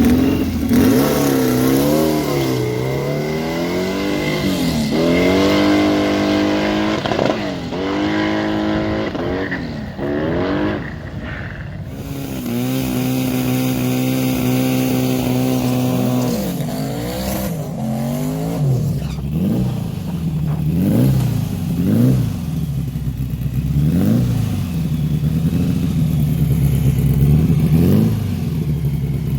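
Car engine revving: the pitch climbs and falls several times, holds steady for a few seconds in the middle, then comes in short, quick blips of the throttle.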